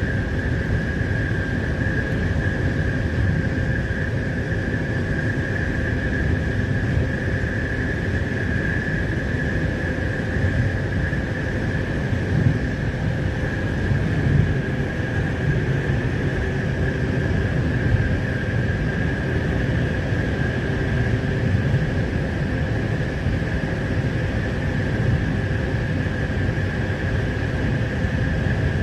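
Passenger train running, a steady low rumble with a steady high whine over it.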